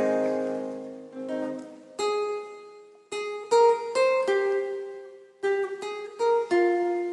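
Instrumental intro of a karaoke backing track: a plucked-string melody that opens on a ringing chord, then single notes that strike and fade away, with no vocals.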